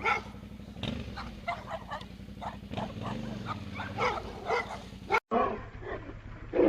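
A dog barking over and over at a motorcycle, whose engine runs steadily underneath and revs up and back down about halfway through. Near the end the sound cuts abruptly to another clip of barking over an engine.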